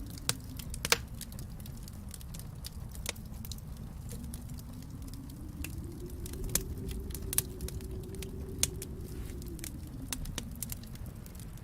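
Wood fire crackling in a fireplace: irregular sharp pops and snaps, the loudest about a second in, over a low steady rumble that swells in the middle and eases off again.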